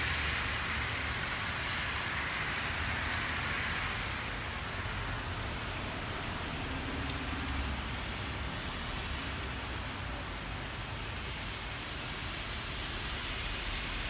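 Steady hiss of rain falling during a thunderstorm.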